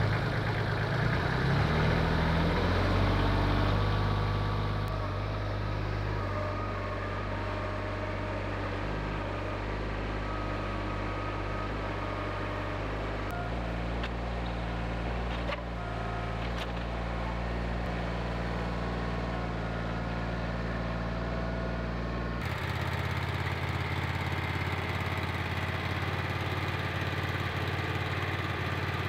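Small gasoline engine of a Wood-Mizer LT15 portable sawmill running steadily. Its tone shifts about halfway through and changes abruptly about two-thirds of the way in.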